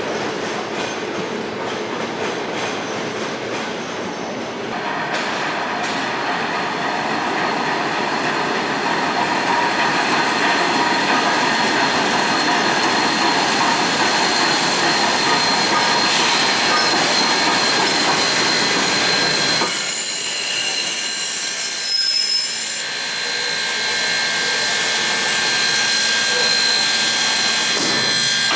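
Trains running through a station: first a Queensland Rail electric suburban train rolling along, then the BB18¼ class steam locomotive 1089 and its train rolling into the platform with a steady high squeal. About 20 seconds in there is a burst of high hiss lasting a few seconds.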